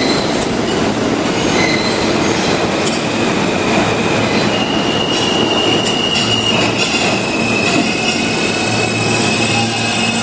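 New York City subway train running through the station: a loud, steady rumble of wheels on rail, with thin high-pitched wheel squeal setting in about halfway through.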